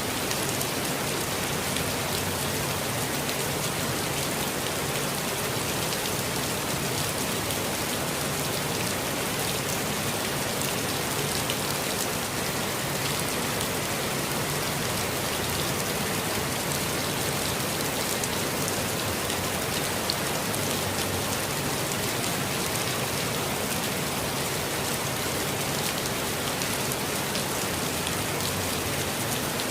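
Steady rain falling on foliage, an even hiss of rainfall with many close drops pattering throughout.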